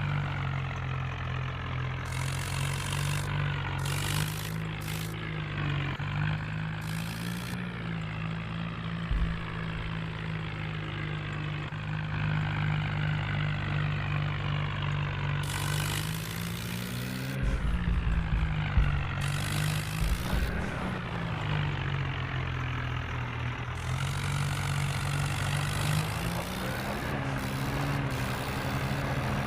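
Tractor engine running steadily, its pitch rising briefly a few times as it is revved, with a few low thuds in the middle.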